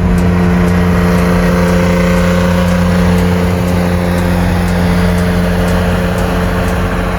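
Porsche 914-6's 2.7-litre six-cylinder engine, on freshly rebuilt and retuned Weber 40 IDA carburettors, running loud and steady at a constant engine speed.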